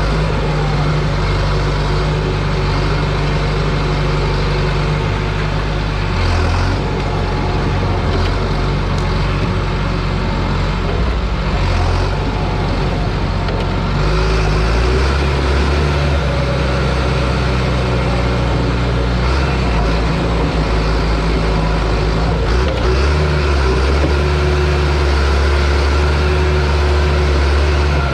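John Deere crawler dozer's diesel engine running steadily under load, its low note changing about halfway through.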